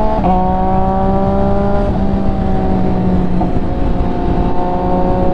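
MV Agusta F3's three-cylinder engine running at a steady cruising pace while riding, its pitch held nearly level with slight dips about two seconds in.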